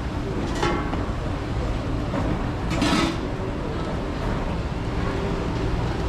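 Steady traffic and street noise, with two brief louder sounds, one about half a second in and one about three seconds in.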